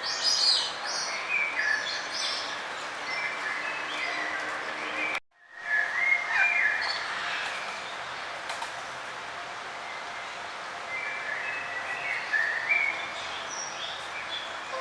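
Birds chirping and singing: short high calls and trills repeating over a steady bed of outdoor noise. The sound cuts out for an instant about five seconds in, then the chirping resumes.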